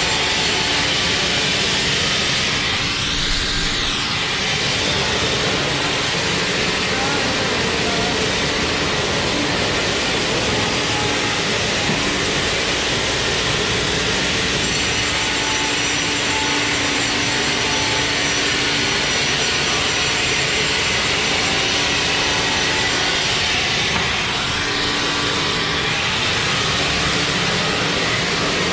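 Sawmill machinery running loudly and steadily, a dense mechanical noise with a low steady hum. Twice its tone sweeps up and down, about three seconds in and near the end.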